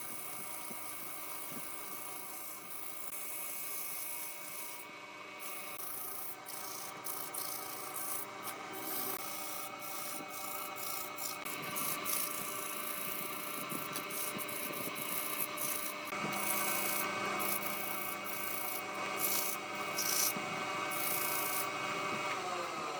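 Electric woodworking machine running steadily while wood is sanded against it, a rasping rub over the motor's hum. Near the end the motor is switched off and winds down, its pitch falling.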